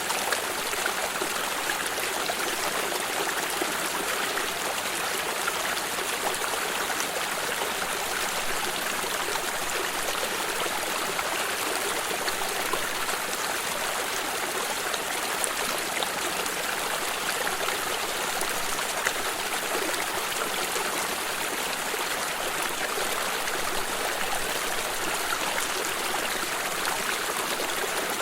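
Stream water running over rocks, a steady rushing and trickling with small splashes and no change in level.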